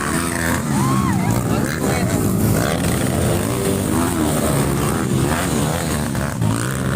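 Several off-road race motorcycles running and revving together, engine pitch rising and falling, with voices mixed in.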